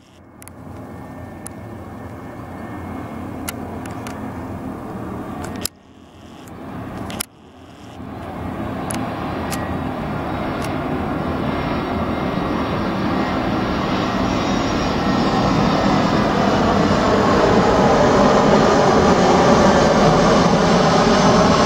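Arriving airliner's engines approaching to land, a steady roar growing louder throughout as the aircraft closes in. The sound cuts out briefly twice, a few seconds in.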